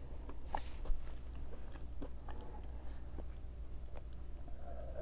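Close-miked chewing of a fried plant-based chicken nugget (KFC Beyond Fried Chicken), with scattered small mouth clicks and one sharper click about a second in.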